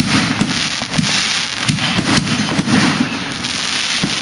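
Consumer fireworks going off in a dense, continuous barrage: many overlapping bangs and crackling pops with no break, typical of a grand finale.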